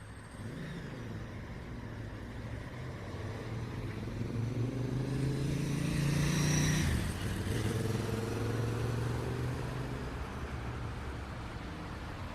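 A motor vehicle drives past on a city street. Its engine and tyre noise swell to a peak about halfway through, then the engine note drops as it moves away, over a steady traffic hum.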